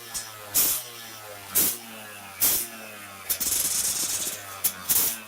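Motorcycle engine running through a home-gutted (bobok) exhaust muffler, a steady low drone broken by short loud bursts about once a second.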